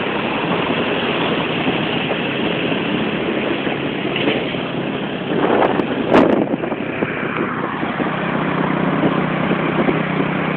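Motorcycle engine running steadily while riding, with wind noise over the microphone. A little past halfway there is a brief louder burst of noise with a sharp click.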